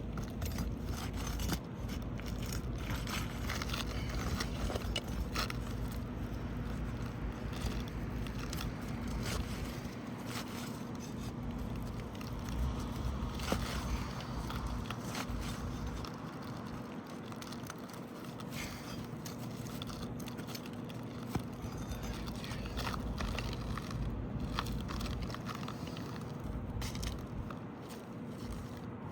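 Hand tools scraping and prying under asphalt roof shingles to break them apart and work the nails loose, with a continuous scratchy rasp and many small clicks and crackles. The shingles are stuck fast to one another.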